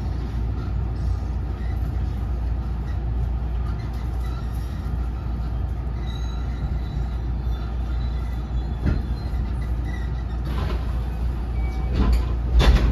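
Steady running rumble inside a JR West 207 series commuter train's trailer car, with faint high wheel squeals now and then. In the last four seconds the wheels knock over rail joints a few times, louder toward the end.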